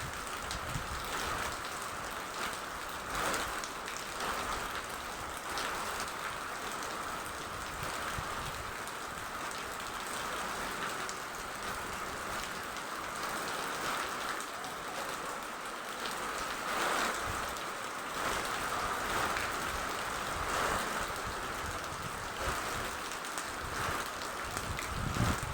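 Steady rain falling, a continuous hiss with brief louder swells every few seconds.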